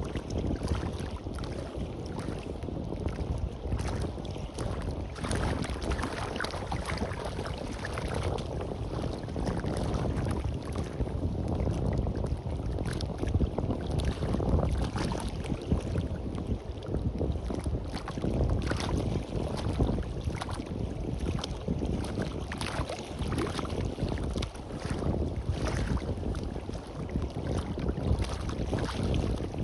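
Wind gusting across the microphone in uneven blasts, over surf washing on a beach.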